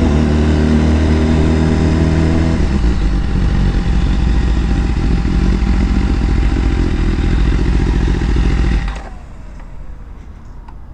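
BMW S1000RR inline-four engine running steadily, then switched off about nine seconds in, leaving only faint clicks.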